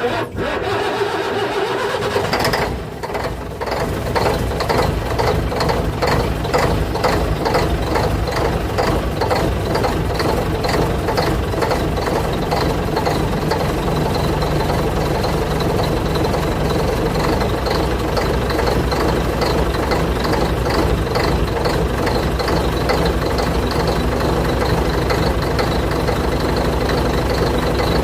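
Scania 113 truck's straight-six diesel engine starting and then idling with a steady diesel clatter, after a brief dip about two and a half seconds in.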